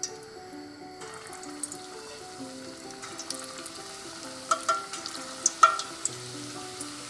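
Kofta balls of grated bottle gourd, potato and gram flour dropped one by one into hot oil in a stainless steel pot and starting to sizzle, the sizzle setting in about a second in. A few sharp clicks about four and a half and five and a half seconds in stand out over the sizzle, and soft background music plays underneath.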